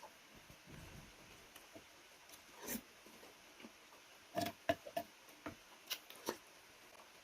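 Close-miked eating: soft chewing and mouth sounds, then a run of short sharp clicks and smacks about four to six and a half seconds in.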